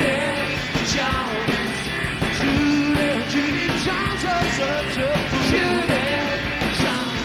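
Rock band playing live with guitars, bass and drums, with a melody line over it, in a gap between sung lines.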